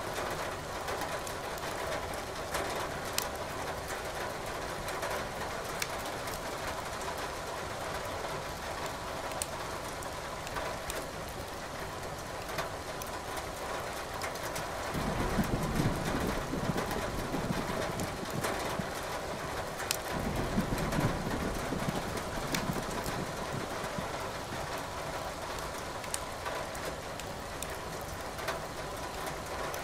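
Steady rain hiss with the scattered sharp pops and crackles of burning firewood in a fireplace. About halfway through, a low thunder rumble rolls in two swells lasting several seconds.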